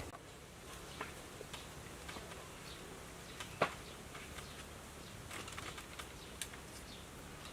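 Faint scattered clicks and taps, with one sharper click about three and a half seconds in, over a quiet low background.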